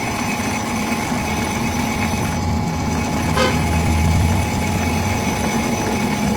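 Steady mechanical running noise with a constant hum, swelling into a heavier low rumble for about a second around the middle. A single short knock comes a little past three seconds in.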